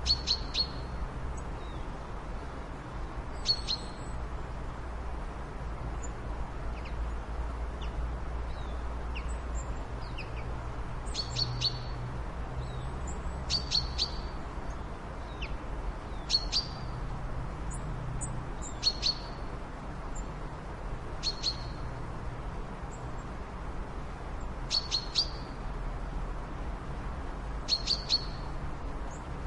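A bird giving short, sharp chirps every two or three seconds, often two or three in quick succession, over a steady low rumble.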